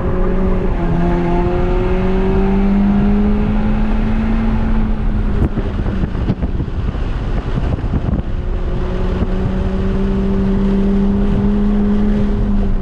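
Turbocharged 2.0-litre four-cylinder of a 2006 VW GTI pulling hard through a Magnaflow cat-back exhaust and catless downpipe, heard from inside the cabin over road and wind noise. The engine note climbs slowly, breaks off for a couple of seconds about halfway through, then picks up and climbs again.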